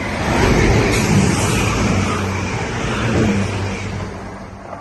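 Class 165 diesel multiple unit passing close by: engine note and wheel and rail noise swell quickly at the start, then slowly fade as it goes away.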